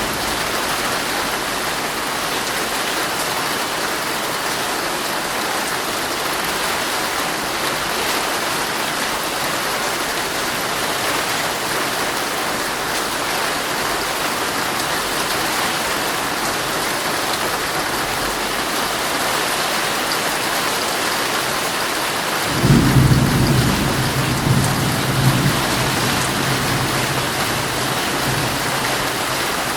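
Heavy rain pouring steadily on a tent's fabric. About three-quarters of the way through, a low roll of thunder breaks in suddenly and rumbles on for several seconds.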